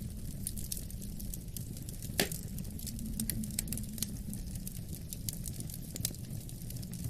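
Wood fire crackling with frequent small sharp pops and one louder pop about two seconds in, over a steady low rumble of wind.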